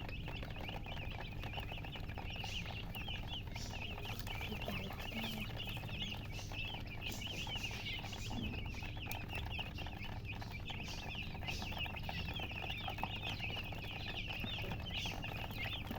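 A brood of newly hatched chicks peeping nonstop: many short, high chirps overlapping one another, over a low steady hum.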